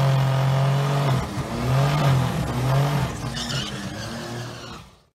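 Car engine revving: one long held rev, then two shorter rises and falls in pitch, fading out near the end.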